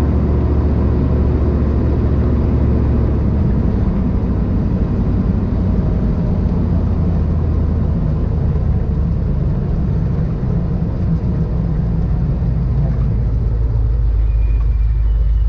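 A motor vehicle running, with a steady low rumble.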